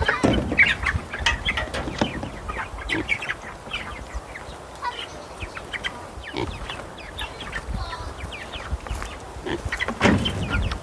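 Young meat chickens peeping and chirping in many short, high calls, with a low rumble underneath.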